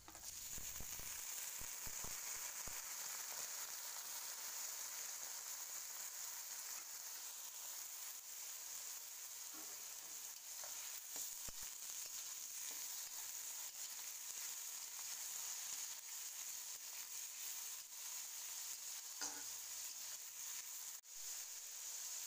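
Sliced bitter gourd sizzling as it fries in hot oil in a metal wok, a steady hiss that starts as the pieces go in. A spatula scrapes and knocks against the wok a few times as it stirs.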